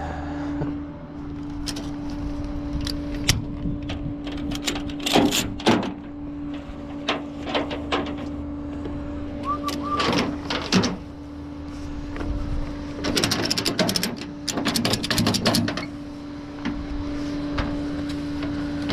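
Rollback tow truck running with a steady hum, over which come irregular metal clanks and rattles, clustered in a longer burst about two-thirds of the way through.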